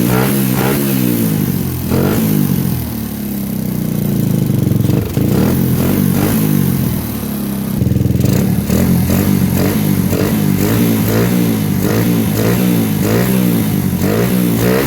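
Suzuki Satria FU motorcycle's single-cylinder engine being revved up and down with the throttle, in slower swings at first and then quick blips about twice a second from about halfway on.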